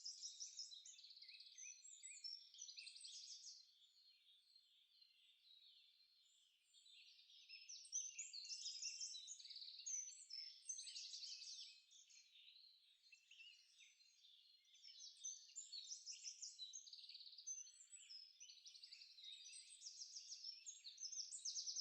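Faint birds chirping and twittering: many short overlapping calls and trills, growing louder in stretches and fading between them.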